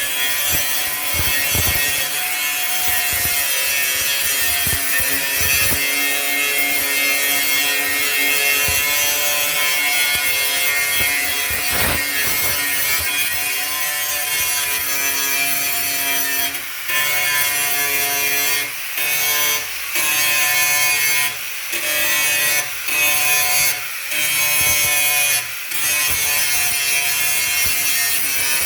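A handheld abrasive power tool running steadily, its motor whine over a rasping grind as it sands down metal. In the second half it lets up briefly about half a dozen times and comes straight back.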